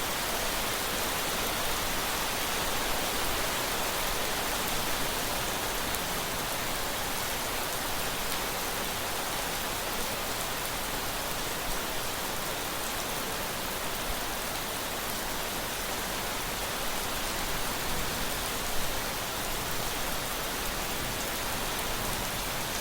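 Heavy rain falling steadily, an even, dense hiss of drops with no letup.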